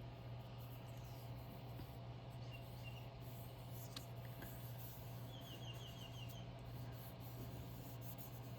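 Faint rubbing and light handling of paper over a steady low hum, with a few soft ticks.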